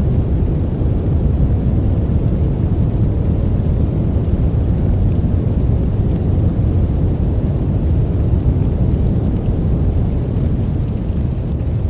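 Steady, unbroken sleep noise, deep in tone with most of its weight in the low end, like brown noise rather than a bright hiss.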